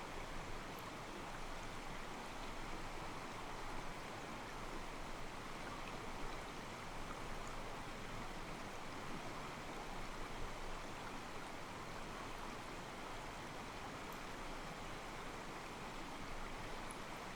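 Calm mountain stream: water flowing and sloshing softly against rocks in a steady, even rush.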